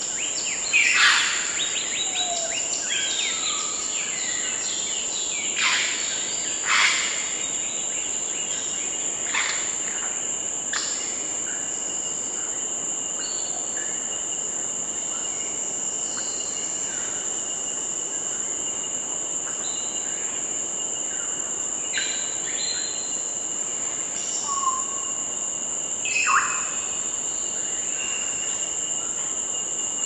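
Birds calling over a steady, high-pitched insect drone: a handful of loud, sharp calls sweep down in pitch, grouped in the first ten seconds and again near the end, with scattered short chirps between them.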